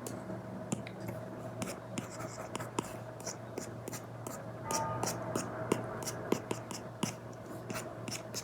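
Apple Pencil Pro tip tapping and stroking on an iPad with a paper-like matte screen protector. Irregular light clicks of the tip land between scratchy drawing strokes, more densely about five seconds in, over a faint steady hum.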